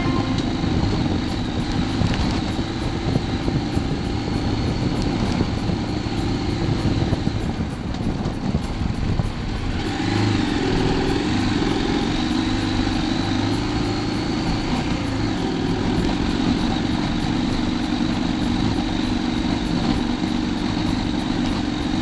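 Motorcycle engine running steadily while riding, under heavy wind and road noise on the onboard camera microphone; the engine note shifts slightly about halfway through.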